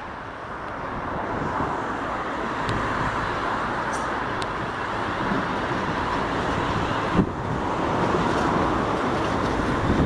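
A large vehicle running close by, its noise building over the first couple of seconds and then holding steady, with a few faint clicks.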